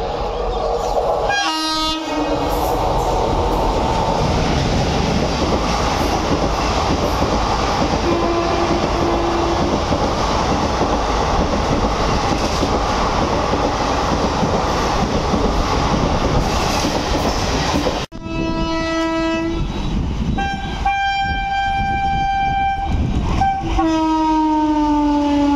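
Express train behind a WAP-4 electric locomotive running through a station at speed: a short horn blast near the start, then the steady rush and clatter of coaches passing close by on the rails. After a cut about 18 s in, a WAP-7 electric locomotive sounds its multi-tone horn in several blasts, the last one long.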